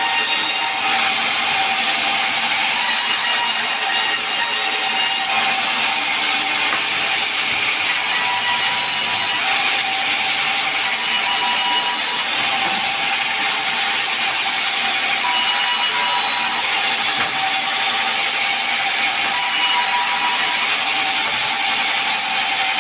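Sawmill saw running, a loud, steady, unbroken mechanical noise with a faint constant tone.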